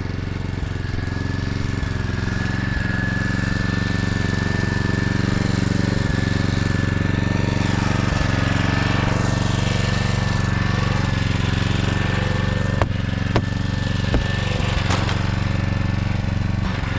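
An engine running steadily at a constant speed, with a fast even pulsing and a thin steady whine above it. A few short knocks come near the end.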